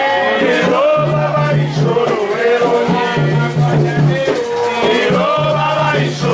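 Candomblé ritual song: voices singing a chant over percussion that includes a shaken rattle.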